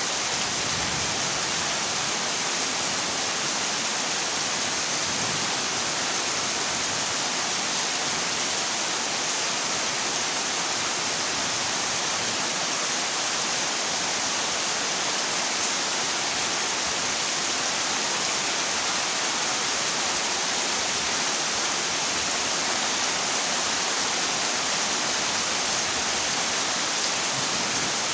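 Heavy rain falling steadily on a zinc sheet roof, an even, unbroken hiss.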